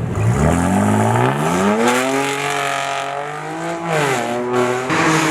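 Car engine revving hard: the revs climb over about two seconds, hold high, fall away about four seconds in, then pick up again near the end.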